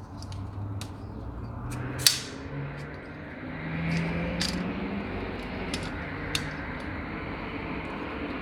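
An engine running steadily, its pitch rising for a few seconds in the middle, with metal clicks and clanks over it and one sharp knock about two seconds in.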